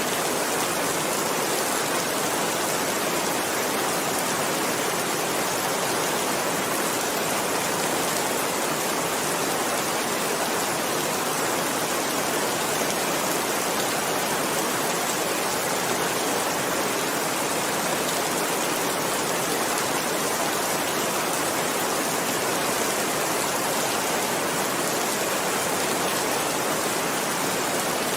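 Continuous steady rainfall, an even dense hiss that holds the same level throughout.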